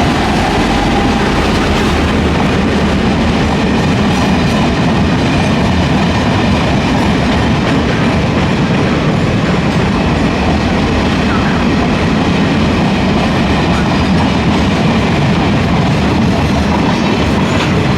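A long Taiwan Railway freight train rolling through a station, its wagons clattering steadily over the rails with a continuous loud rumble.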